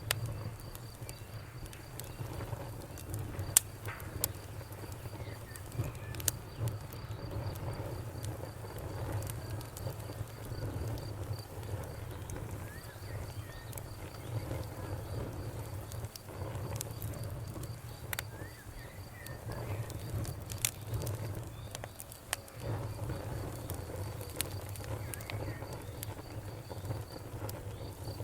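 Wood fire crackling, with scattered sharp pops over a steady low rumble of burning.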